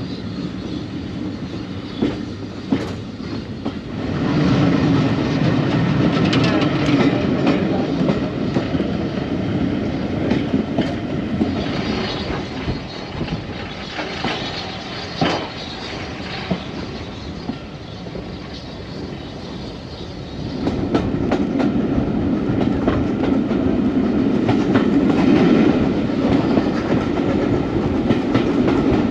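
Heritage railway train running along the track, wheels clicking over the rail joints over a steady rumble. The rumble grows louder about four seconds in, eases off for a while past the middle, and rises again about twenty-one seconds in.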